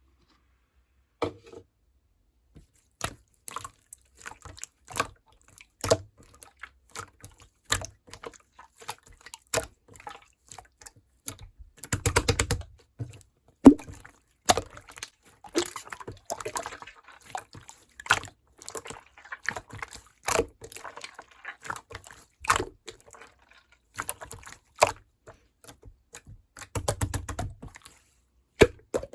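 Close-up sounds of drinking grape milk: irregular small wet clicks and sips, with two longer drinking stretches about twelve seconds in and near the end.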